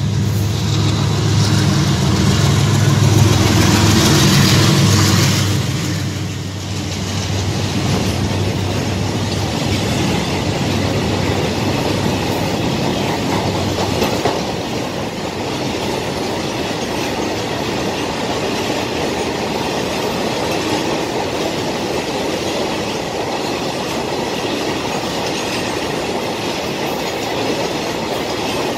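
Diesel freight locomotive passing close by, its engine loudest in the first few seconds, then a long train of oil tank wagons rolling past with steady wheel clatter.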